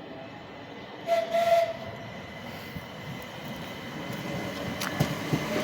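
Train approaching a station, giving a short horn blast about a second in. The rumble of the train builds near the end as it draws closer.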